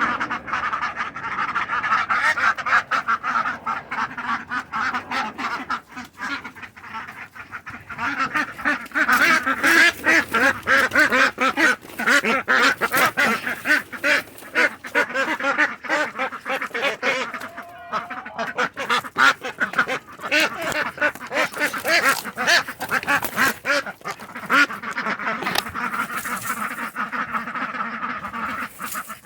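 A flock of ducks quacking constantly, many short calls overlapping, with a brief lull early on before the chatter picks up again.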